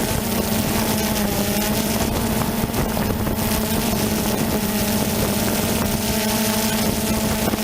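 A steady motor-like drone holding one constant pitch over a noisy hiss.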